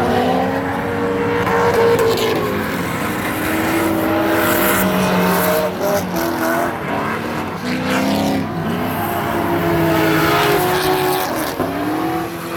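Drift cars' engines revving hard during a run, the pitch of several engines climbing and dropping repeatedly with throttle changes and shifts, over a constant rush of sliding-tyre noise.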